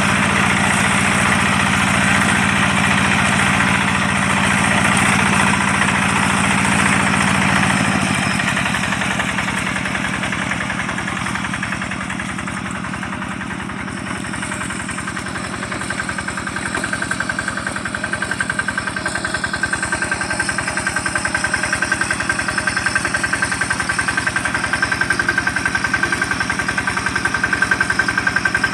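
A rice-field tractor's single-cylinder diesel engine running steadily. About eight seconds in it drops to a slower, quieter beat of separate firing strokes. Over the second half it grows louder again, with a thin high whine.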